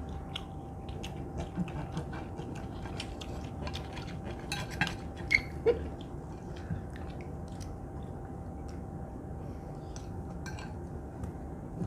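Knives and forks clinking and scraping on plates as several diners cut and eat beef steak, in scattered sharp clicks, busiest in the first half.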